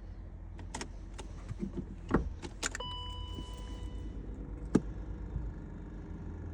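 Car keys jangling and a series of sharp clicks as the key goes into the ignition of a 1997 BMW 323, before the engine is started cold. About three seconds in, a steady electronic tone sounds for about a second, and a single loud click comes near the five-second mark.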